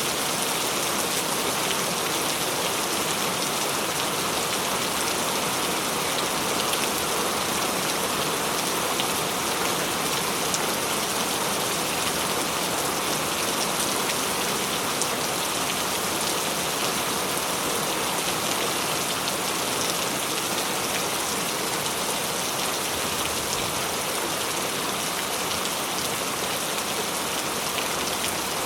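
Steady heavy rain falling, an even hiss with scattered drops ticking on a surface.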